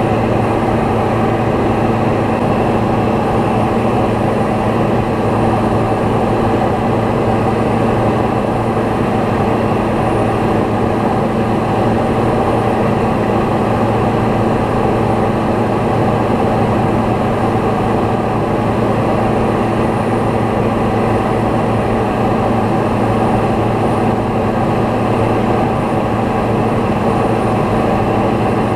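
Light propeller aircraft's engine and propeller droning steadily in cruise, heard from on board, with no change in pitch or level.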